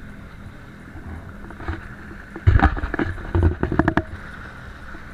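Jet ski engine running steadily at speed. From about halfway through, a quick series of loud thumps breaks in.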